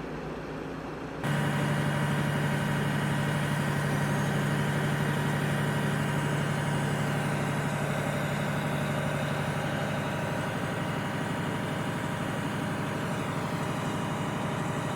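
Diesel engine of a Freightliner M2 112V crane truck idling steadily, with a strong even hum. About a second in, the sound steps up suddenly to a louder, fuller idle that then holds steady.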